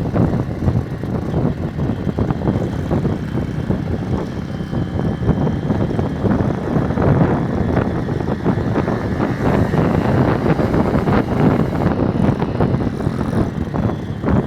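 Small motorcycle engine running during a ride, with wind buffeting the microphone.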